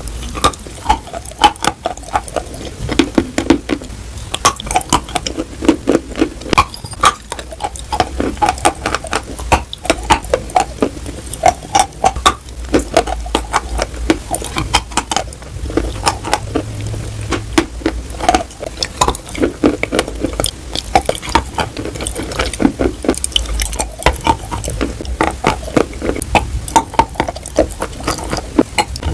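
Edible chalk being bitten and chewed: a dense, continuous run of sharp crunches and crackles, several a second.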